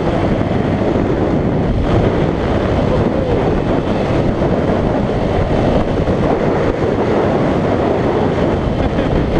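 Wind noise buffeting a GoPro's microphone while riding a motorcycle, a loud, steady rushing rumble.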